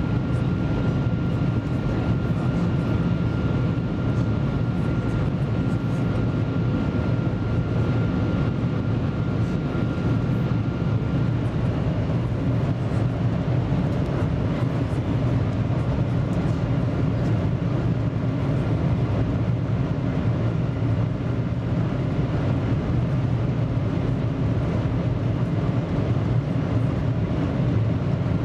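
Steady cabin noise of the Shanghai Transrapid maglev train running along its guideway: an even, deep rushing rumble. A faint thin whine sits over it and stops about a third of the way through.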